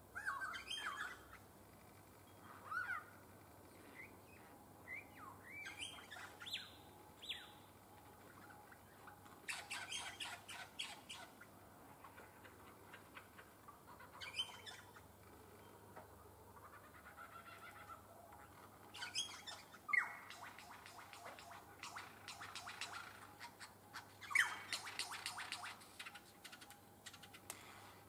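Birds calling: scattered short chirps and whistles, with rapid chattering runs about ten, twenty and twenty-five seconds in.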